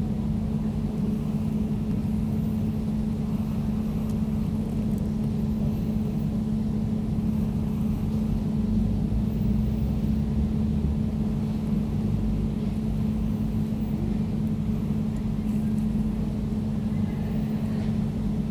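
Air conditioner running steadily: a constant low hum with a rumble beneath it.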